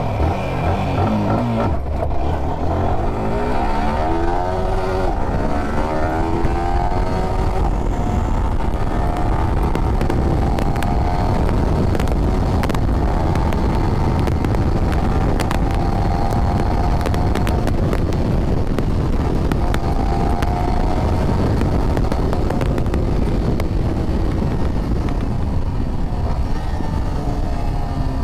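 Yamaha R15 V4's 155 cc single-cylinder engine pulling away, its note rising in repeated climbs through the gears, then running steadily at speed, with heavy wind rumble on the microphone. The engine note falls near the end as the bike slows.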